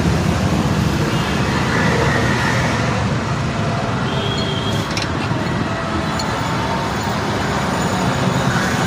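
Steady motor-vehicle and road-traffic rumble, with a faint click or two about halfway through.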